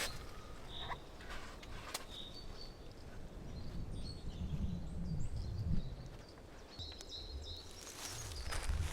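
Outdoor ambience: a low, uneven rumble with a few short, high bird chirps and faint clicks.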